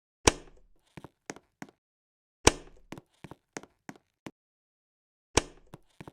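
Three loud, sharp knocks, about two and three seconds apart, each with a short ringing tail, and lighter clicks in between.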